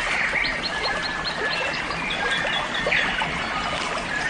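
Wild natural ambience: many short, high chirps repeating in quick series over a steady rustling background, with a few sweeping calls in between.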